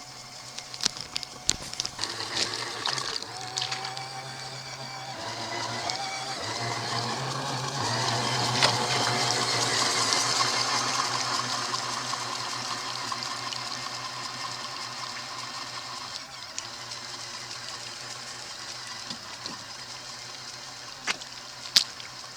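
Small electric motor of a LEGO RC boat running steadily with water splashing and churning. It grows louder toward the middle, then slowly fades. There are a few sharp clicks near the start and near the end.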